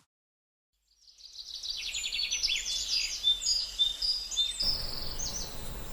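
Birds singing: quick, repeated high chirping notes that fade in after about a second of silence.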